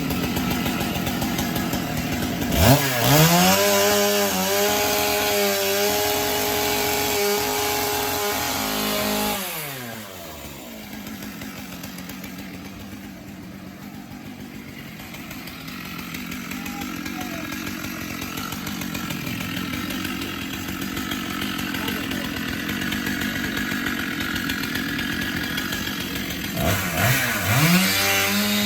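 Chainsaw revved to full speed about three seconds in and held there for about six seconds, as when cutting through wood, then dropping back to a quieter idle. It revs up again near the end.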